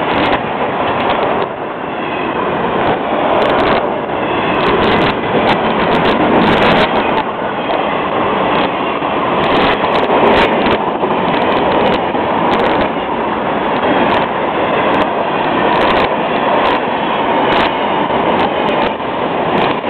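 Freight cars of a long Florida East Coast Railway train rolling past close by: a steady rumble of steel wheels on rail, with irregular sharp clicks from the wheels and couplers.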